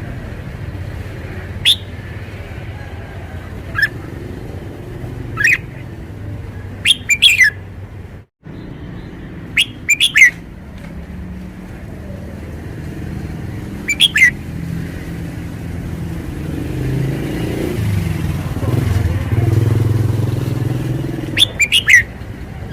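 Red-whiskered bulbul singing short, loud, sharp phrases every few seconds, over a steady low rumble of traffic that swells about two-thirds of the way through.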